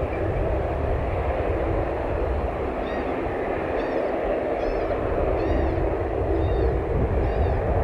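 Steady rumble of aircraft engines, with a bird giving short, rising-and-falling chirps about once a second from about three seconds in.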